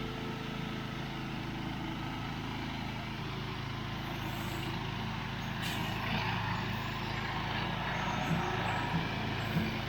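Small engine of a homemade zero-turn riding lawn mower running steadily, with a rougher, noisier layer building after about four seconds and one brief click in the middle.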